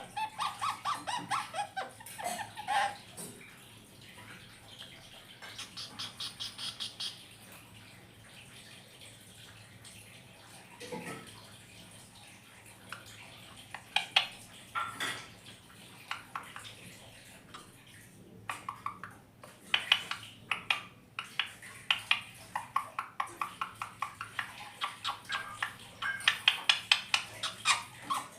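Indian ringneck parakeet chattering to itself in runs of quick, short, repeated chirps, several runs with pauses between.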